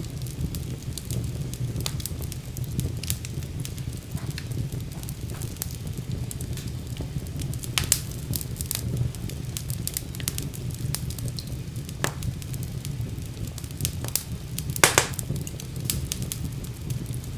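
Wood fire burning in a fireplace: a steady low rumble of flames with irregular crackles and a few sharper pops, the loudest about eight seconds in and near fifteen seconds.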